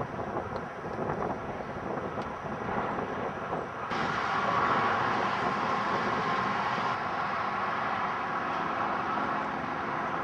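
Steady road and engine noise of a moving vehicle, growing louder about four seconds in.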